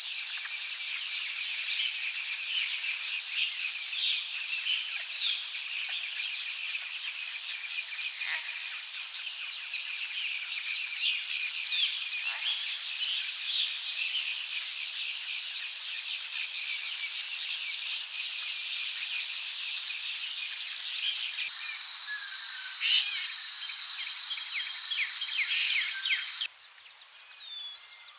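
Forest chorus of insects and birds: a dense wash of high chirps and trills with scattered bird calls. About 21 s in it switches abruptly to a steady high insect buzz, and about 26 s in to quick repeated high chirps.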